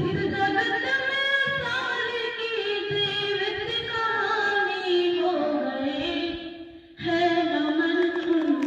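A girl singing a slow, drawn-out melody of held, wavering notes, breaking off briefly for a breath about seven seconds in.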